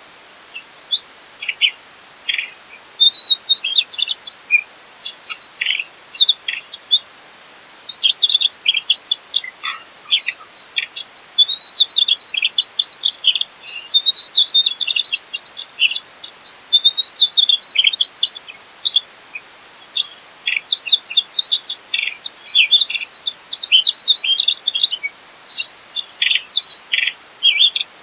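Mugimaki flycatcher singing continuously: a fast, varied stream of high chirps, trills and short whistled glides, broken by a few brief pauses.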